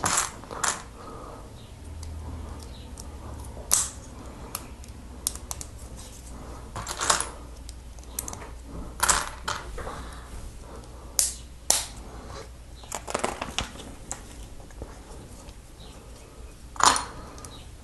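Small plastic Lego plates and bricks clicking together and knocking on the table as they are picked out and pressed onto one another, in scattered single clicks and short clusters every second or two.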